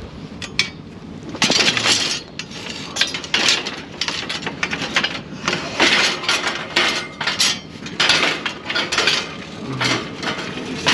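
Scrap metal clanking and clattering as pieces are handled and set down: a run of irregular metal knocks and clinks.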